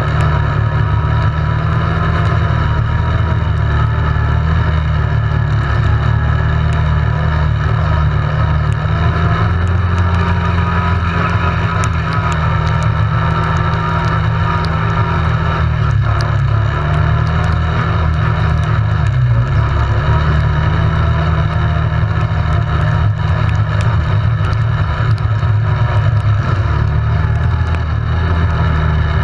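ATV engine running steadily at a fairly even speed while riding, with only slight rises and dips in pitch.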